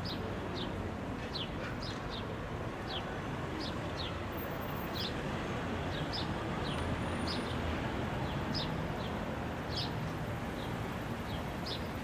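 Small birds chirping: short, high, falling chirps about twice a second, over a steady low rumble.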